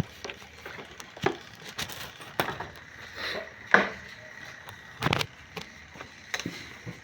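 Irregular knocks and clicks of hard objects being handled, with about five louder knocks roughly a second and a bit apart; the one near the middle is the loudest.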